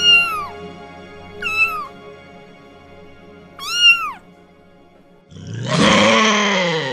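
A Siamese kitten meows three times, each high meow rising and then falling. About five seconds in comes a much louder, harsh, rasping call from a Eurasian lynx, about a second and a half long, sinking in pitch.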